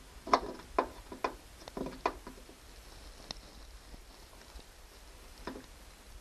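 Sharp plastic clicks and taps from hands fitting trim retainer clips back into their holes: a quick run of about six in the first two seconds, then single clicks about three and five and a half seconds in.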